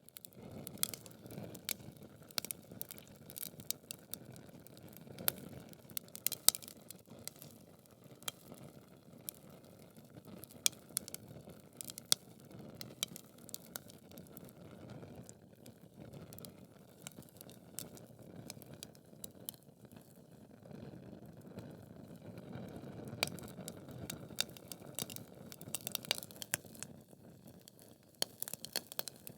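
Wood fire burning in a fireplace: logs crackling with frequent sharp, irregular pops over a steady low rush of flame.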